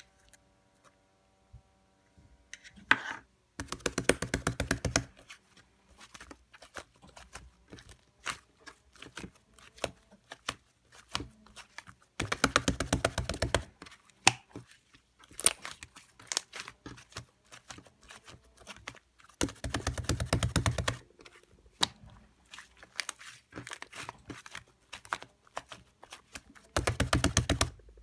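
Pale-yellow slime with a syrup layer being squeezed and worked by hand: four bursts of rapid crackling and popping, each about a second and a half long, with scattered single clicks and soft sticky noises between them.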